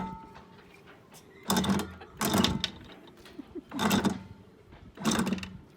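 Anchor chain clanking and rattling as it is hauled up into the boat over the anchor gear, in four short bursts with pauses between.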